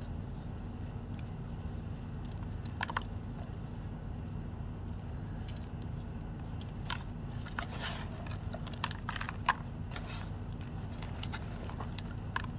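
White gym chalk crunching and crumbling in scattered sharp crackles, clustered about a third of the way in and thicker through the middle, over a steady low hum.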